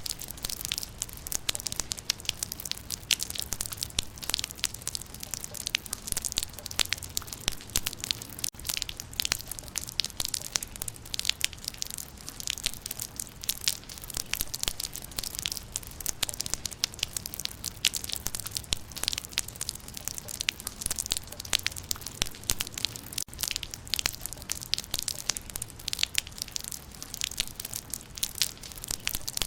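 Rain falling on leaves: a steady, dense patter of raindrops striking foliage.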